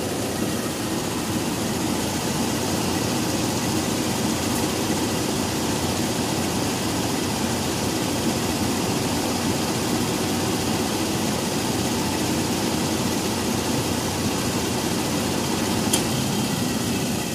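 Car engine idling with its electric radiator cooling fans running, a steady rushing hum. There is a single sharp click near the end.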